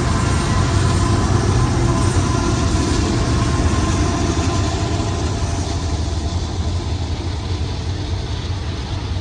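Diesel locomotives of a Union Pacific freight train, led by an EMD SD70, passing at work with a deep, steady engine rumble that slowly fades.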